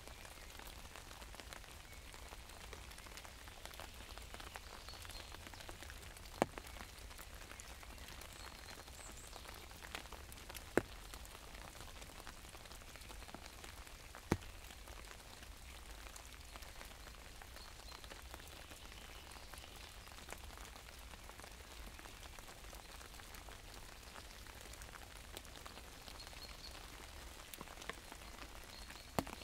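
Steady rain falling on an umbrella, with a few sharp single ticks of heavier drops striking the canopy, four in all, several seconds apart.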